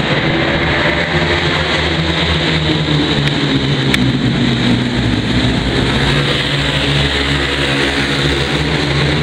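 Ice speedway motorcycles racing around the track, their 500 cc single-cylinder engines running loud and continuous as the pack passes, with a single sharp click about four seconds in.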